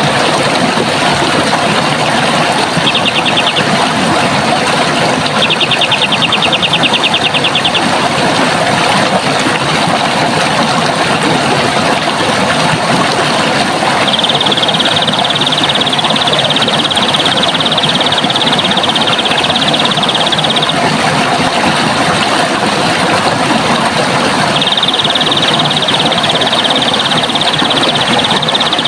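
Running water rushing steadily, with a bird's high, rapid trill coming and going four times: a short one, a longer one, then two long trills of several seconds each.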